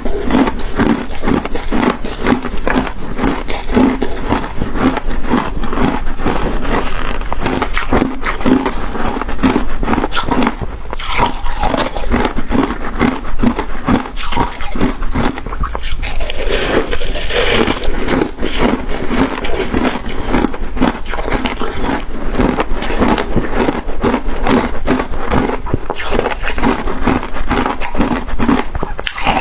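Close-miked chewing of crunchy shaved ice, with dense crackling crunches over a steady chewing rhythm.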